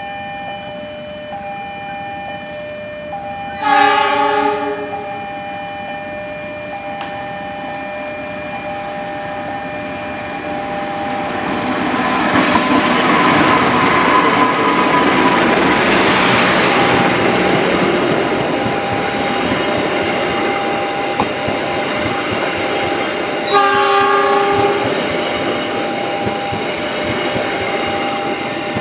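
A passing Indonesian (KAI) train sounding its horn in two short blasts, one about four seconds in and another near the end, while the rumble and clatter of its wheels builds up, is loudest in the middle and stays strong as the train runs by. Faint steady tones sit underneath throughout.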